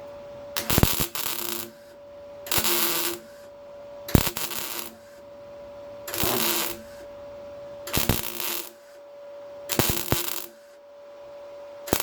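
Welder laying a series of short stitch welds to fill a repair in car body steel: about six crackling bursts, each under a second and starting with a sharp click, roughly every two seconds, over a steady hum.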